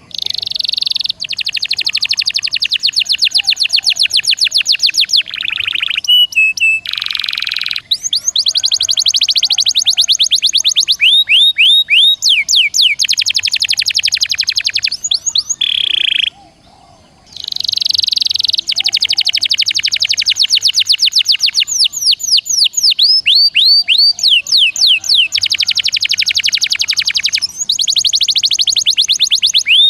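Songbird song in fast, tightly packed trills of sharp repeated notes: the fast, dense song of an icterine warbler, sikatan londo and canary mix. It is broken by short pauses about a second in and again about halfway through.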